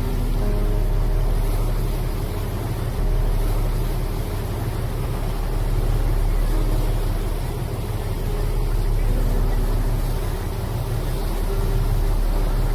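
Tour boat's engine running steadily with a low rumble, heard from on board, under a hiss of wind and water.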